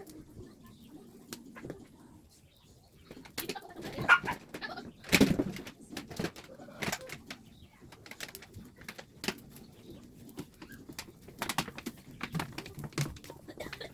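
Pigeons or doves cooing, with scattered clicks and knocks and two louder knocks about four and five seconds in.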